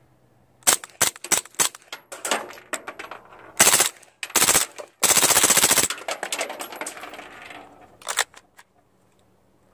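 A suppressed PTR 9CT 9mm MP5-clone firing subsonic 124 grain ammunition: a string of single shots, then a few short rapid bursts and one longer burst of about a second, and a last shot near the end. The gun cycles reliably, with every case ejecting.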